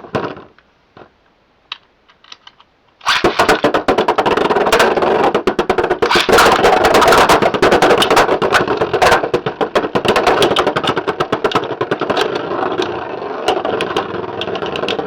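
Beyblade X spinning tops launched into a plastic battle stadium about three seconds in. They spin and clash with a dense, rapid clicking and rattling that eases slightly near the end.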